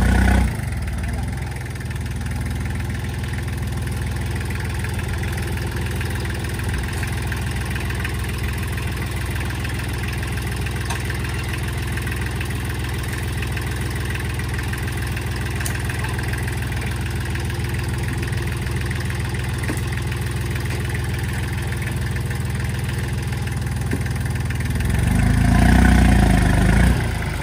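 Engine idling steadily with a low hum, swelling louder for a moment at the start and again for about two seconds near the end.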